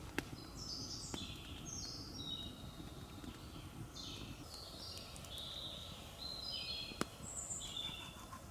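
A songbird singing two fast phrases of high notes that fall in steps, over a steady low background noise. Two sharp clicks, one just after the start and one about seven seconds in.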